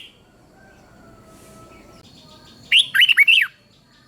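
Red-whiskered bulbul singing one short, loud phrase of quick, falling whistled notes about three seconds in. Fainter thin calls run in the background.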